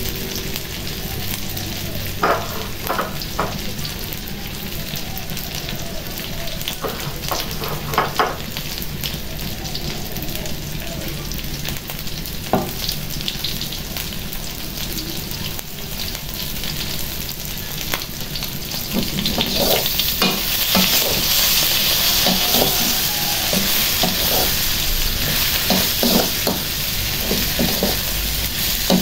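Shrimp frying in a steel wok with a steady sizzle, broken by scattered clinks and scrapes of a perforated metal spatula against the wok. About twenty seconds in, the sizzle grows louder and the clinks of stirring come more often.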